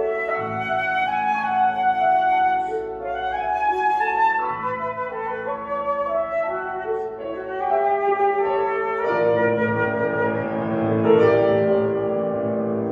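Flute and piano playing classical chamber music: the flute carries a flowing melody over sustained piano chords.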